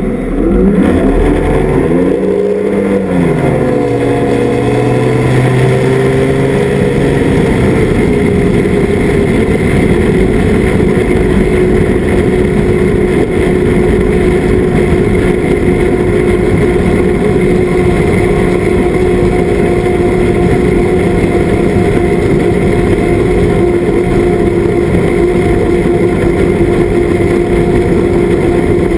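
Outboard motor running under load, its pitch rising and dipping for the first eight seconds or so, then holding at a steady high speed.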